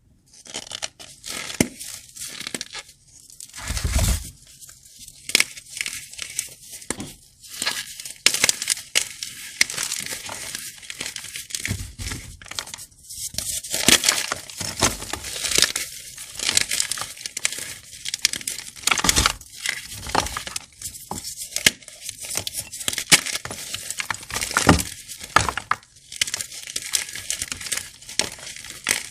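Crunchy chalk blocks coated in sand and glitter being crushed and crumbled: dense crackling and crunching, with a few heavier crunches every several seconds.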